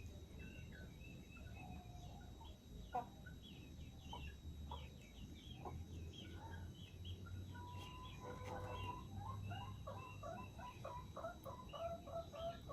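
Free-range village chickens clucking, faint, with scattered short calls that pick up into a quick run of clucks in the second half.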